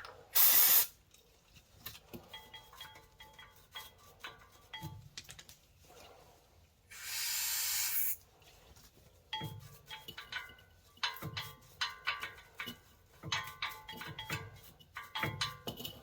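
Aerosol brake cleaner sprayed in two hissing bursts, a short one near the start and a longer one in the middle, between and after which front brake parts of a 2016 Honda Odyssey are scrubbed and scraped, the metal ringing with each stroke.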